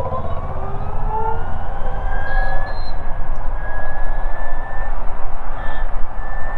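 Ather 450X electric scooter's motor whining, rising steadily in pitch for the first couple of seconds as it gathers speed, then holding a high, fairly level whine. A constant low rumble runs underneath.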